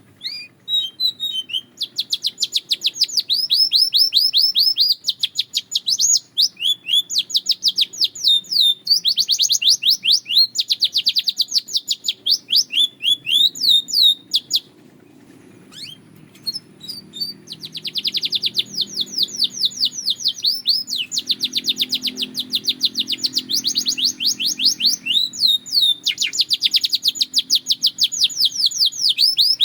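Belgian canary singing: fast trills of rapidly repeated high notes in phrases of one to three seconds, broken by a short pause about halfway through.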